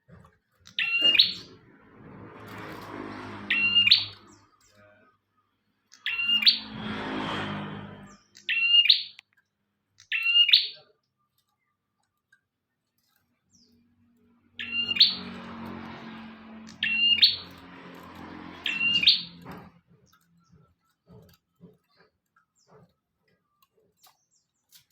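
Prinia (prenjak) calling: loud, short, sharp chips repeated in groups of two or three, about one to two seconds apart, with three stretches of a harsher, noisier sound beneath them.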